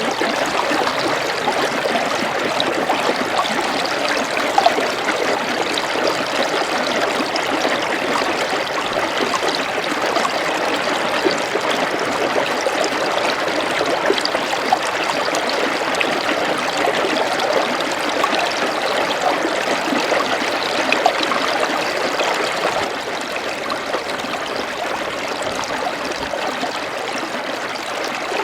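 Running water of a small stream flowing steadily, with faint splashes, a little quieter from about two-thirds of the way through.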